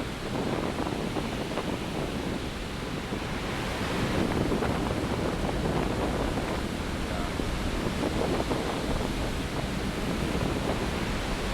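Heavy winter storm surf breaking and rushing on the shore, a continuous roar of water that swells a little about four seconds in, with wind buffeting the microphone.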